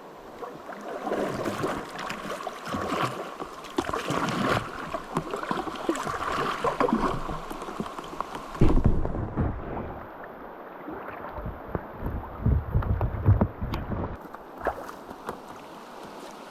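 River water splashing and gurgling around a moving kayak. Wind gusts buffet the microphone several times in the second half.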